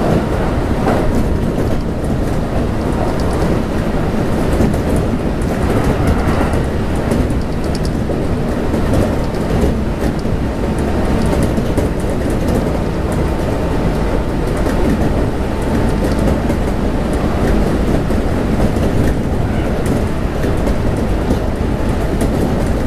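Steady running noise inside a Kintetsu 1259 series electric train at speed: the rumble of wheels on the rails, with a few faint clicks from the track.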